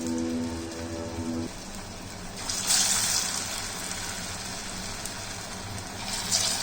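Water running steadily from a tap, rushing louder for a moment about a third of the way in. Background music with a held sax-like tune plays at the start.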